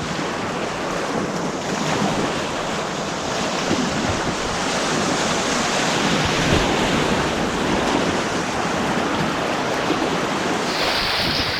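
Rushing water of artificial white-water rapids, a steady even rush with some wind on the microphone.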